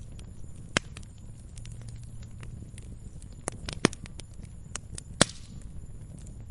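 Wood fire crackling in a fireplace: a steady low rumble of flames with scattered small pops and a few sharp louder snaps, the loudest just after five seconds trailing a brief hiss.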